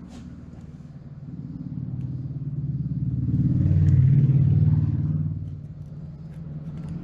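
A motor vehicle's engine running, growing louder to a peak about four seconds in and then fading, like a vehicle driving past.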